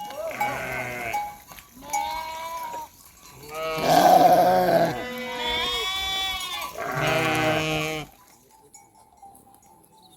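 A flock of sheep and goats bleating: about five drawn-out, wavering calls one after another, which stop about eight seconds in.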